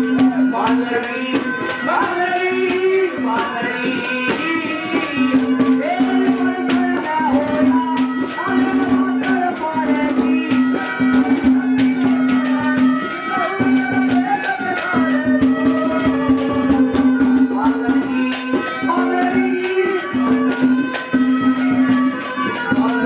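Haryanvi folk music: a melody over a held drone note, with fast hand-drum strokes throughout.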